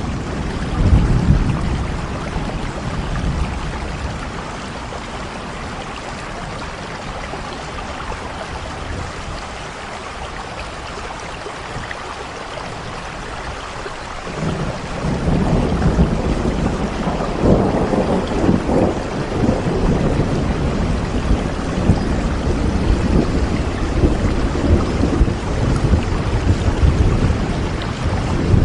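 Steady rain falling, with rolling thunder: a low rumble about a second in, then a longer, louder rumble that builds about halfway through and rolls on to the end.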